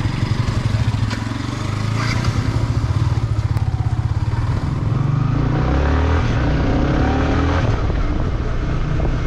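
Motorcycle engine running at low revs with an even beat. About five seconds in, it changes to a steadier, smoother drone.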